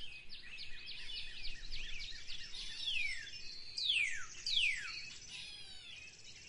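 Quiet birdsong: a rapid run of short high chirps, with three long falling whistles about three to five seconds in.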